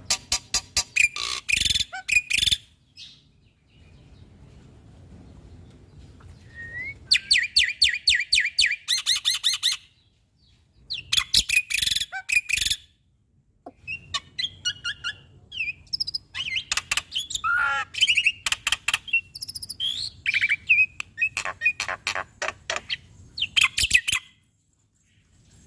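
Black-winged myna (jalak putih) singing in full song: bouts of fast, harsh rattling chatter mixed with short whistled notes and varied imitated phrases, broken by short pauses.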